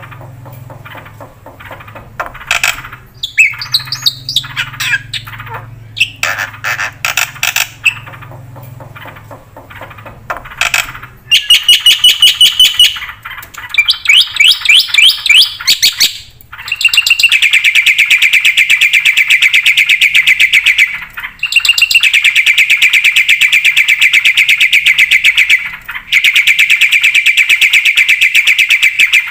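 Black-winged starling singing: separate harsh calls and squawks at first, then from about eleven seconds in long runs of fast, rapid-fire chattering notes with short breaks between them.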